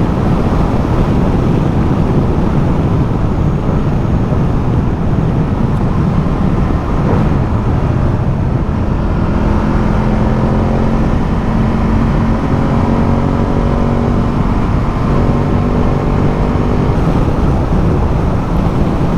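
Ducati Multistrada motorcycle cruising: steady wind and road rush over the engine, with a steady engine hum coming through more clearly in the second half.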